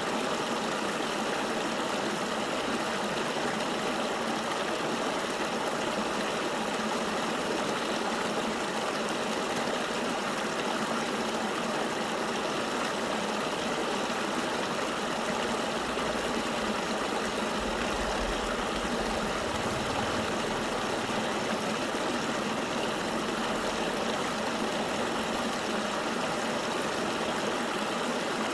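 River water flowing steadily with an even rushing noise. A low rumble joins it for several seconds past the middle.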